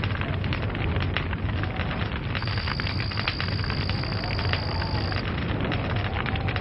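Log fire burning, with dense popping and crackling over a steady low rumble. A steady high-pitched whistle sounds for about three seconds in the middle.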